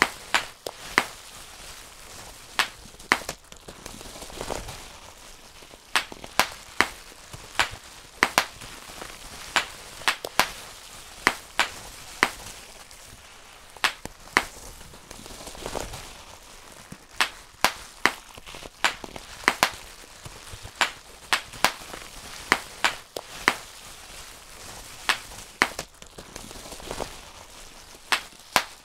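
Bubble wrap being popped by hand, one bubble at a time: sharp snaps at an irregular pace of about one or two a second, with the plastic sheet rustling faintly between pops.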